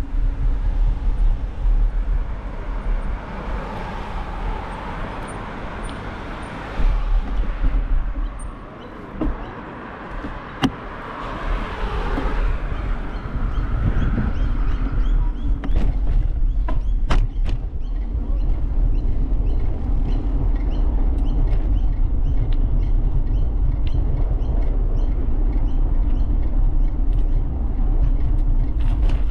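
Ride-along audio from a moving bicycle: a steady low rumble of wind and road on the microphone. Road traffic swells past twice, a few sharp clicks come about halfway through, and a light, even ticking runs through the second half.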